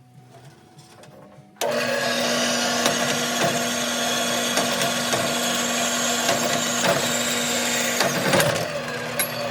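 A power tool's motor running steadily, starting abruptly about a second and a half in and easing slightly near the end.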